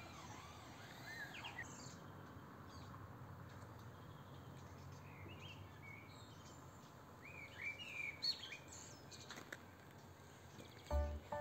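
Several short bird chirps and calls, faint over a soft steady outdoor hiss. Music comes in near the end.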